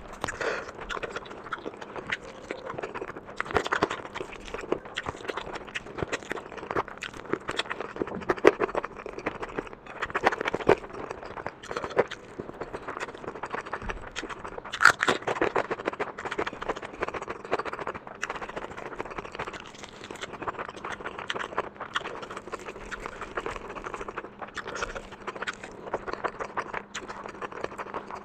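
Close-miked eating: chewing and wet mouth sounds, a dense run of small sticky clicks and smacks with a few louder crunchy bites.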